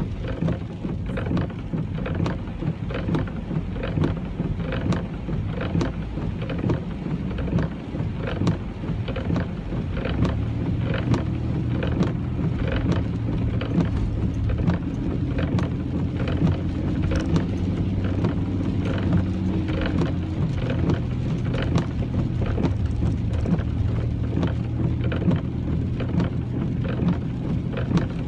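Rain pattering on a moving car, heard from inside, with many sharp drop hits over a low rumble of engine and road noise. From about ten seconds in, a steadier low hum from the car comes up under the rain.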